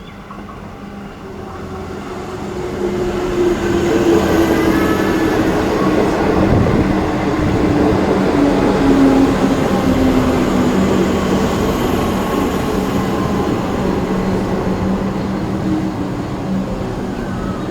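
Electric suburban train running through the station, growing louder over the first few seconds and then staying loud, its motor whine slowly falling in pitch.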